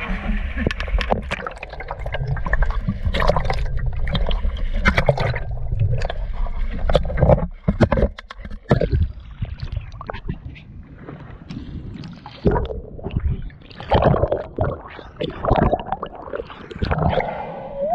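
Water splashing and sloshing against the side of a small boat in a series of irregular sharp splashes, over a steady low rumble.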